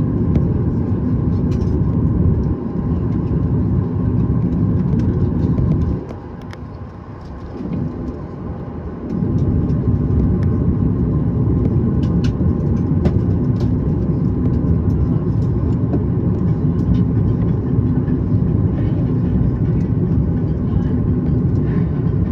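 Jet airliner cabin noise: the engines' steady low rumble with a few steady hum tones. It drops for about three seconds roughly a quarter of the way in, then comes back up to the same level.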